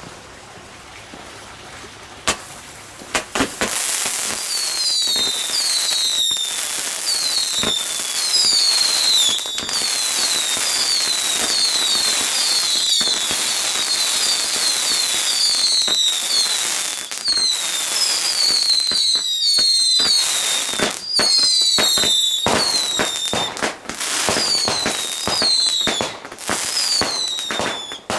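Fireworks going off in rapid succession: a few sharp cracks about two seconds in, then from about four seconds in dozens of short whistles, each falling in pitch and overlapping, over a continuous string of sharp bangs and crackles.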